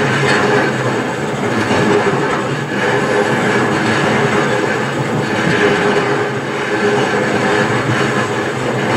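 Running noise of an electric passenger train heard from inside the carriage: a steady rumble of wheels on rail under a constant hum, with no breaks.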